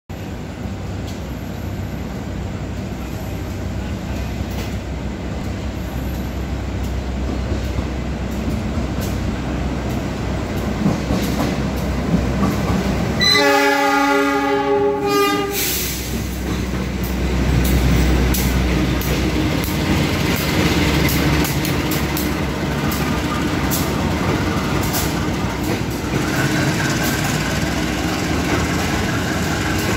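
Diesel-electric passenger trains rumbling as they run into the station. A locomotive horn sounds once about midway through and is held for about two seconds. Then passenger coaches pass close by with a steady rumble and repeated clicks of the wheels over the rail joints.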